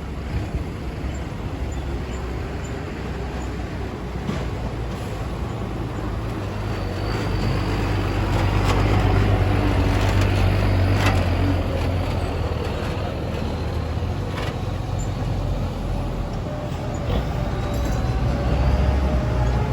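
Diesel engine of a ten-wheel dump truck running, louder for a few seconds in the middle as it comes closer, with a few sharp knocks and rattles.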